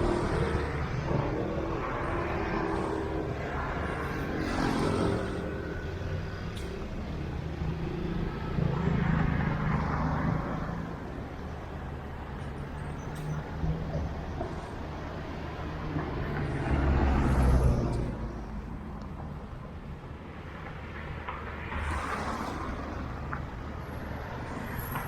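Road traffic: vehicles pass one after another, their engine hum rising and fading, with the loudest low engine passing about two-thirds of the way through.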